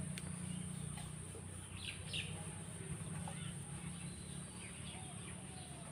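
Faint bird chirps in the background, a short pair about two seconds in and scattered small calls after, over a low steady hum.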